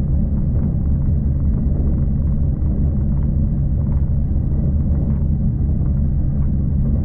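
V/Line passenger train running along the track, heard from on board: a steady low rumble with faint irregular clicks from the wheels on the rails.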